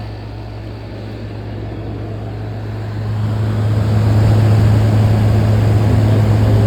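Sharp 12,000 BTU window air conditioner running, heard from its outdoor side: the GMCC compressor's steady low hum under the rush of the condenser fan, growing louder about halfway through.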